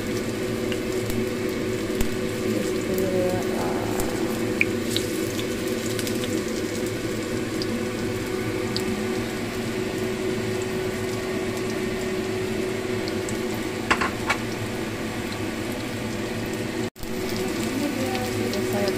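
Battered banana fritters frying in oil in a nonstick pan: a steady sizzle under a faint steady hum, with a few taps and scrapes of a plastic spatula against the pan about 14 seconds in. The sound drops out for a moment shortly before the end.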